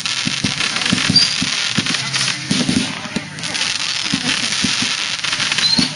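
Fireworks popping and crackling in quick succession, with people's voices underneath.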